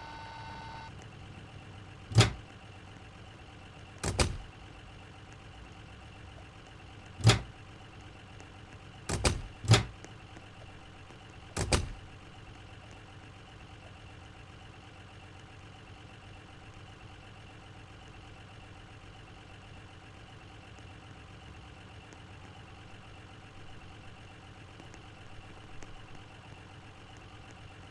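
Six loud, sharp bangs over a steady low hum, two of them in quick succession about nine seconds in. Before them, a steady electronic tone cuts off just under a second in.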